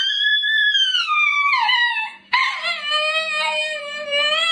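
A dog howling: a long howl that rises and then falls away, ending about two seconds in, followed by a second, lower howl held fairly steady with a slight waver.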